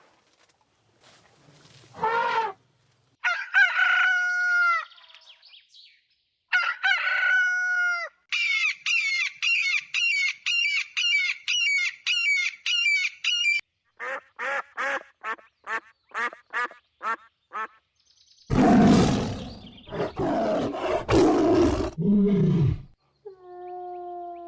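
A string of separate animal calls, mostly domestic fowl: a few single calls, then a fast run of repeated calls for about five seconds, a slower run of shorter calls, and louder, rougher calls near the end.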